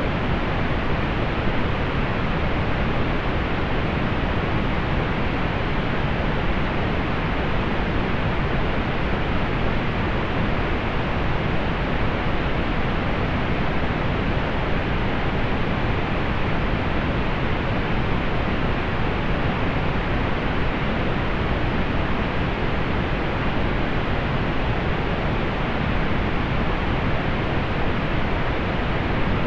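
Steady pink noise, an even hiss, fuller in the lows than in the highs and softened at the top, with no change throughout.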